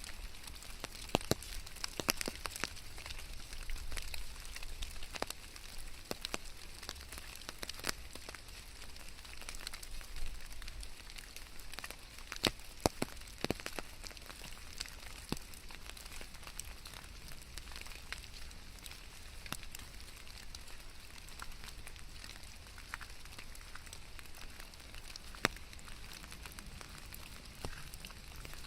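Rain falling steadily, a soft even hiss with scattered sharp drops and taps landing on hard surfaces.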